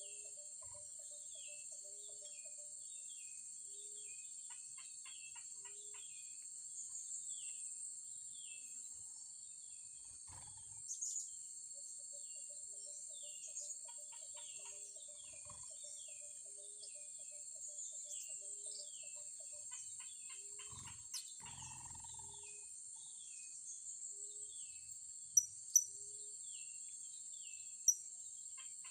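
Insects droning steadily and high, with many small bird chirps and a low call repeating about every second and a half. Near the end come a few sharp, high-pitched bird calls, the loudest sounds.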